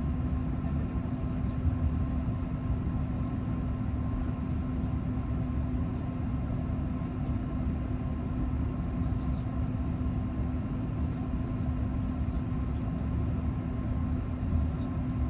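Steady low mechanical rumble with a constant droning hum, as of a running vehicle or aircraft engine.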